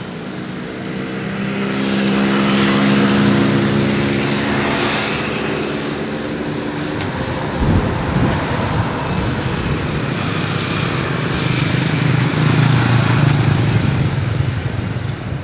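Jet airliner passing close overhead: a steady engine hum with a whine above it through the first half, then a sudden knock about eight seconds in and a louder, rougher rumble.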